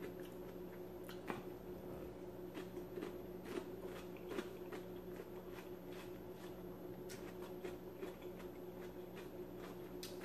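A person chewing food with faint wet mouth clicks and smacks scattered through, over a steady low hum.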